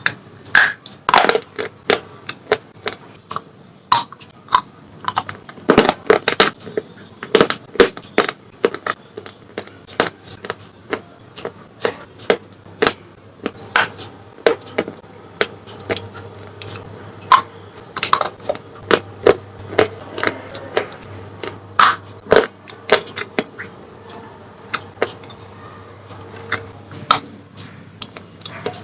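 Close-miked crunching and chewing of slate pencils: sharp, brittle snaps and crunches come irregularly, several a second, with no pause.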